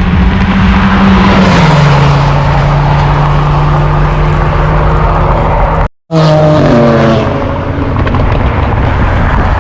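A car engine running loudly, its note stepping down in pitch about a second and a half in. It cuts off abruptly near the middle, then returns with an engine note falling away.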